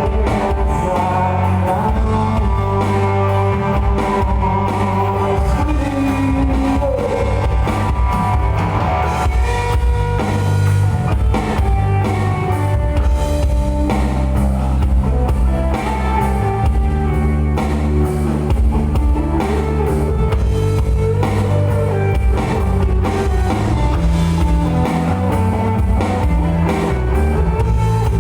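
Rock band playing: guitar over bass and drum kit, a steady, loud passage of music.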